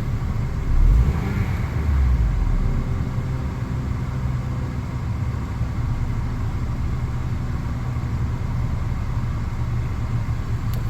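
2004 Honda Accord engine idling steadily, running again on replacement ignition coils after a no-start, with two brief louder low swells about one and two seconds in.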